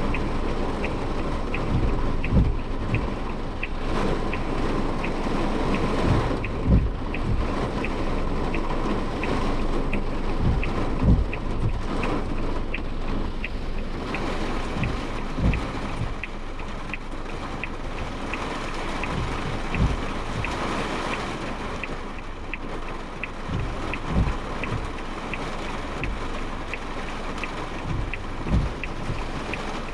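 Heavy typhoon rain drumming on a moving car, heard from inside the Suzuki Jimny Sierra's cabin, with steady road and tyre noise. Irregular low thumps come every few seconds, and a faint, even tick repeats about twice a second.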